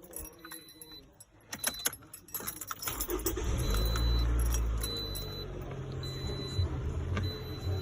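Keys jangling and clicking in the ignition of a 2010 Toyota RAV4, then about three seconds in the engine cranks and catches, runs loud for a couple of seconds, and settles to a steady idle.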